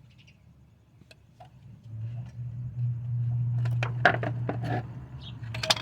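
Sharp metal clicks and knocks from a seal puller working at the transmission's driver-side axle seal to pry it out, over a low steady hum that builds from about two seconds in.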